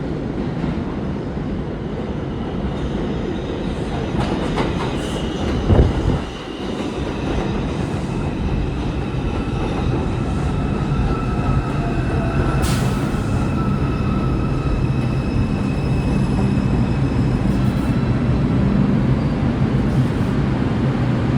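Train running on rails, its rumble building gradually, with faint high-pitched wheel squeal in the middle and a single loud knock about six seconds in.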